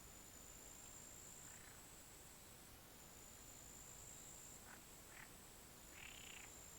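Faint pond ambience: a steady high-pitched insect trill, with a few faint short calls from frogs or birds, the clearest about six seconds in.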